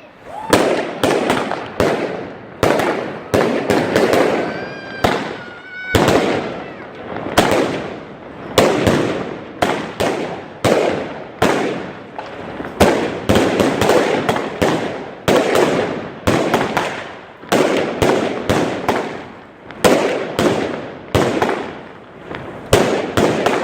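Fireworks going off in a rapid, irregular barrage: sharp bangs about two or three a second, each trailing off in an echo before the next.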